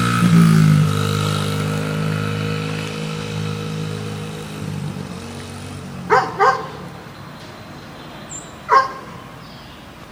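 Dirt bike engine running and fading away over the first few seconds. Then a dog barks twice in quick succession and once more about two seconds later.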